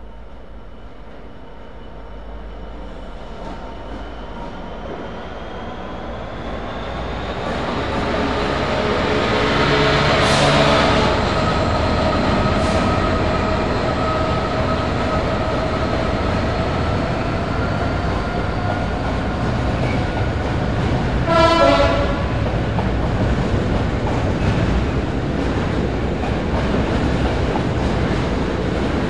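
A Class 66 diesel-electric locomotive (a two-stroke V12 diesel) approaches, growing steadily louder, and passes at speed with its engine running. Its train of loaded flat wagons follows, rumbling and clattering over the rail joints, with one brief, loud squeal about three-quarters of the way through.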